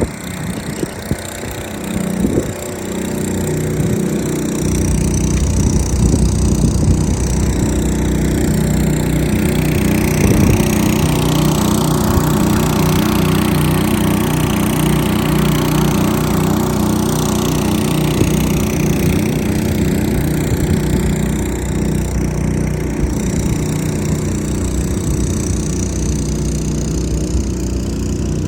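Engine-driven water pump running steadily, pumping out floodwater; it gets louder about four seconds in.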